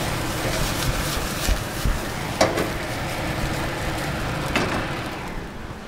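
Rice and onions sizzling in a hot wok, with a wooden spoon scraping and knocking against the pan a few times as the rice is tossed. The sizzle dies down near the end.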